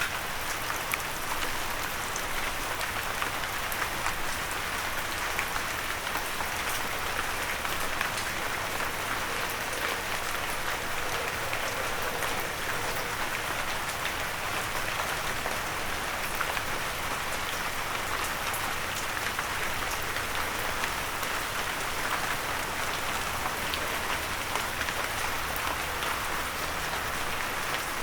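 Steady rain, with individual drops ticking sharply on a windowsill.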